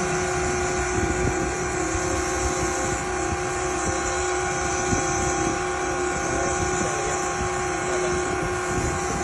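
A motor running steadily, a constant-pitched hum that holds without change, over a steady rush of wind and water noise.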